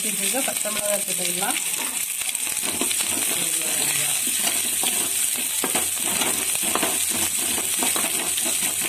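Small onions and green chillies sizzling in hot oil in a metal kadai, sautéed until soft, with a metal spatula scraping and tapping the pan as they are stirred.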